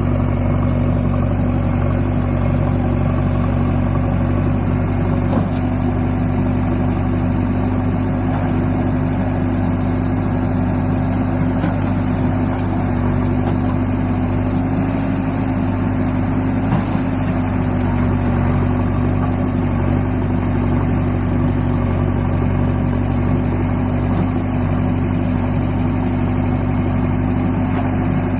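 Tractor diesel engine running at a steady speed, its note holding one pitch throughout.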